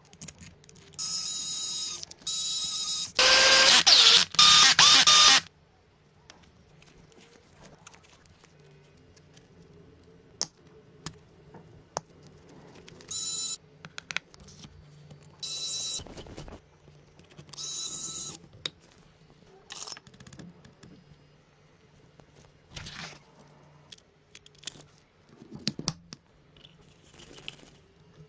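A small motor whirring in short bursts of about a second each, the loudest burst about three seconds in, with clicks and knocks of handling between them.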